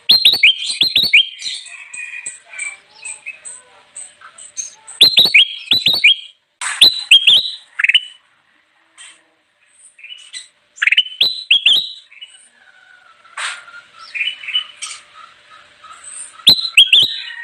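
Bulbul (kutilang emas) song: loud bursts of quick, falling whistled notes come in clusters every few seconds. Between them run a string of thin, very high chips and softer warbling.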